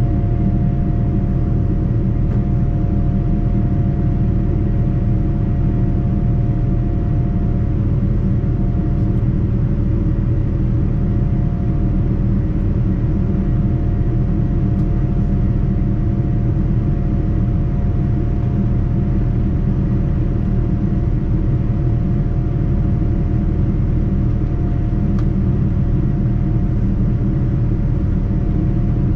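Steady cabin noise of a Boeing 787-9 airliner in flight: a dense low rumble of engines and airflow, with a pair of faint steady hums above it.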